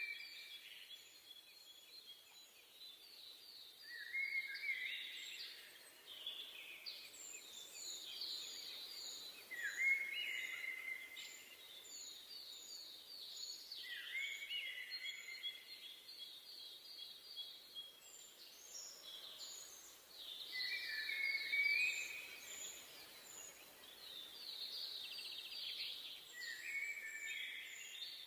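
Songbirds singing in a forest: song phrases that climb into rapid trills recur every few seconds, with short high calls in between, over a faint steady background hiss.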